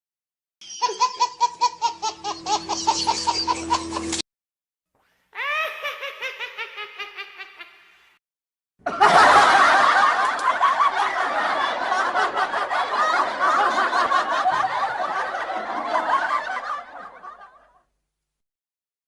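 Three laughter sound effects play one after another, with short silences between them. The first, about three seconds long, is a pulsing laugh over a steady low tone. The second is a shorter, fading laugh. The last and longest runs for about nine seconds and trails off.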